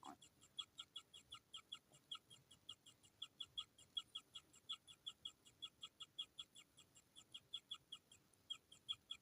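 Kingfisher chicks giving rapid, repeated short begging chirps, about four to five a second, a steady hungry chatter.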